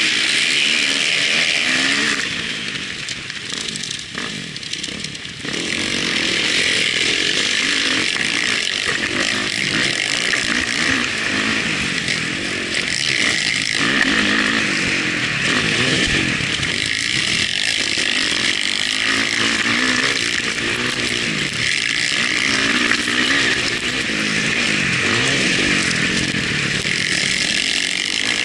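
Motocross bike engine revving hard, its pitch rising and falling over and over through the gears, with a steady rush of wind. About two seconds in the throttle eases off and the sound drops for a few seconds, then the engine picks up again.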